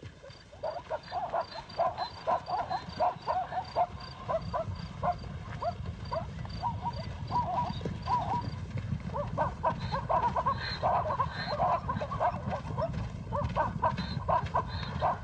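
Zebras giving many short barking calls over a steady low rumble. The calls grow denser about nine seconds in.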